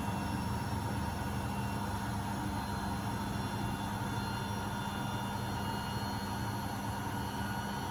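Beko WMB71642W washing machine drum in its final spin at 1000 rpm: a steady motor hum with a constant whine over the rush of the spinning drum.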